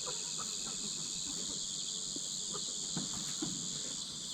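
Steady high-pitched chorus of insects chirring, with a few faint soft taps.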